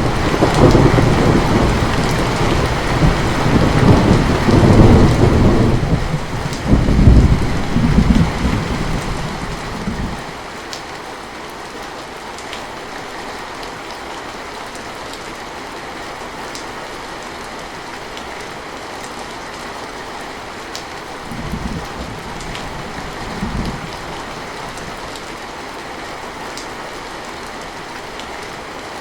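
Heavy rain falling steadily, with a long, loud roll of thunder for about the first ten seconds and two short, weaker rumbles later on.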